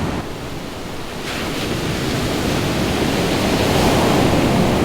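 Ocean surf breaking and washing up the beach, building to its loudest near the end, with wind rumbling on the microphone.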